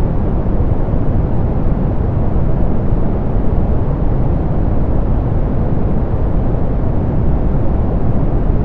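Steady synthetic pink noise, a dull, even hiss weighted toward the low end and rolled off in the highs, unchanging throughout.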